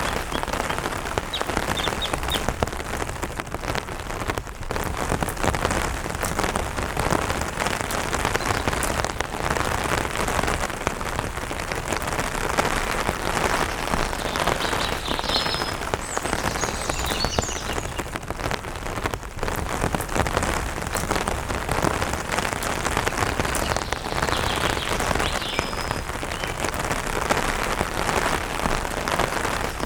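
Light rain pattering steadily on an umbrella canopy, a dense run of small drop ticks. Faint bird chirps come through twice, about halfway through and again near the end.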